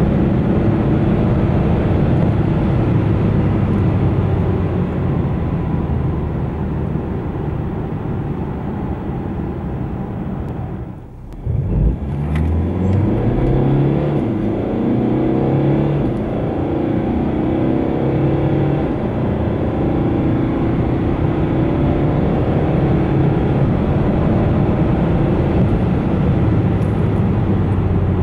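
Mercedes-Benz E220d's 2.0-litre four-cylinder diesel heard from inside the cabin under hard acceleration, with tyre and wind noise, through the 9G-Tronic nine-speed automatic. About 11 s in the sound drops out briefly, then a new full-throttle run starts from low speed, the engine note rising in pitch and falling back at each quick upshift.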